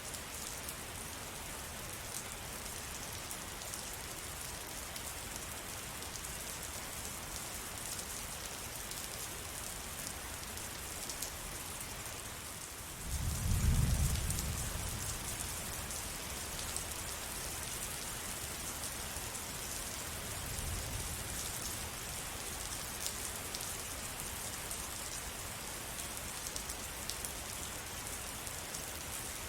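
Steady rain falling, with fine ticks of individual drops. About midway a low rumble of distant thunder swells and fades over a few seconds, and a fainter rumble follows several seconds later.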